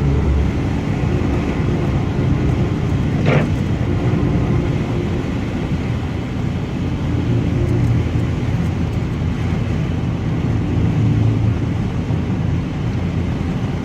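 Steady engine and road noise of a car driving, heard from inside the cabin, with one brief sharp sound about three seconds in.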